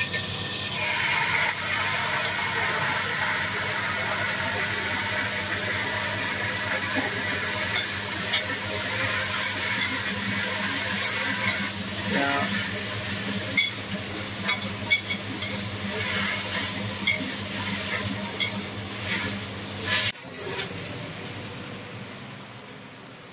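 Leafy green vegetables sizzling loudly in a hot wok as they are stir-fried, with a metal spatula scraping and tapping the wok. The sizzle starts about a second in as the greens go into the oil, and cuts off suddenly near the end, leaving quiet room sound.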